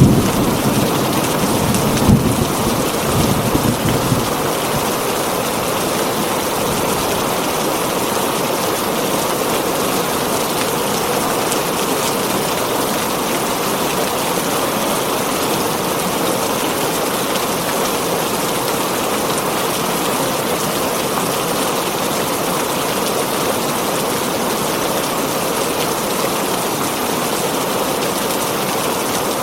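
Heavy rain falling steadily on a tin roof, with thunder rumbling at the start and again a couple of seconds in before fading.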